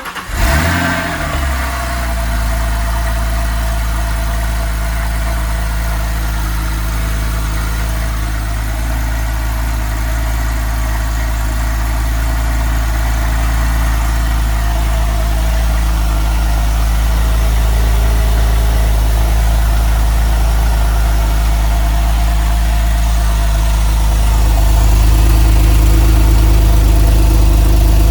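Porsche 911 Carrera 4S flat-six engine on a cold start: it catches right at the start with a brief change in pitch, then settles into a steady idle that gets a little louder about 24 seconds in.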